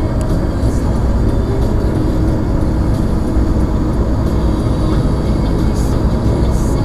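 Blizzard wind blowing hard against the microphone, a loud, steady low rumble that flutters irregularly with the gusts.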